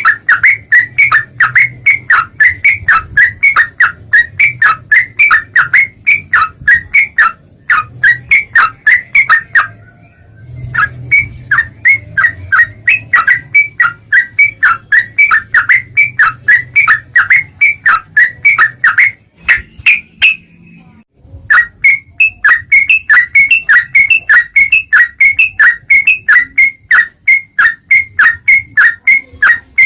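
Yellow-vented bulbul (trucuk) calling loudly in a fast, even chatter of sharp notes, about four a second, with two brief pauses.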